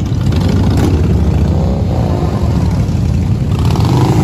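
Many motorcycle engines running at once, with some of them revving.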